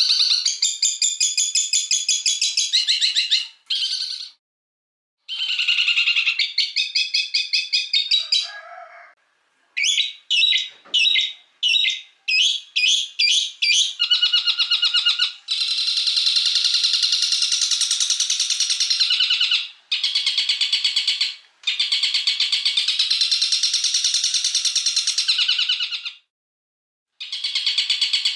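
Songbird calls: rapid, harsh chattering trills and runs of sharp repeated notes, high-pitched, broken by a few short silent gaps.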